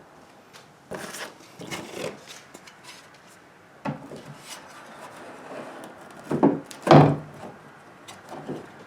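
Hard plastic knocking and scraping in a few separate bouts, loudest about seven seconds in: a flush-mount rod holder being pushed and worked into a freshly cut hole in a plastic kayak deck to check the fit.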